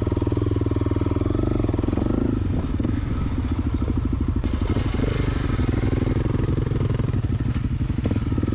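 Honda CRF250L's single-cylinder four-stroke engine running at low, steady revs, its firing pulses coming through evenly.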